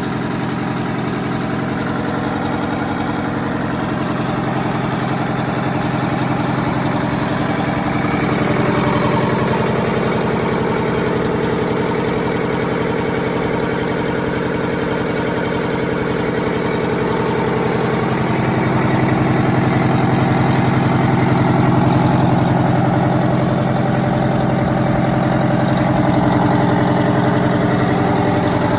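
Detroit Diesel 8V92TA, a turbocharged two-stroke V8 industrial diesel, running steadily at a fast idle. Its note shifts slightly about 8 and 18 seconds in.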